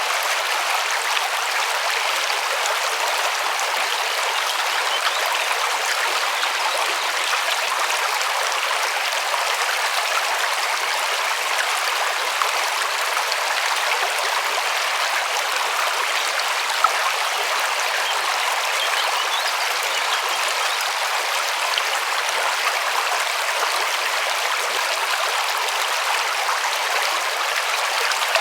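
River water rushing and splashing over stones, a steady hiss with no low rumble, with one faint tick about two-thirds of the way through.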